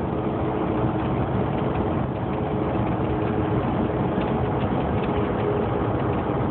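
Steady engine and road noise heard from inside a tractor-trailer's cab while cruising on the highway: an even drone with a couple of held tones over it.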